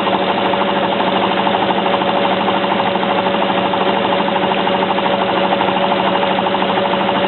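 Hotpoint 9534A washing machine in its spin, the drum motor running steadily with a fast, even rattle. The spin is waterlocking: water and suds held in the drum keep it to a slow spin until most of the water has drained.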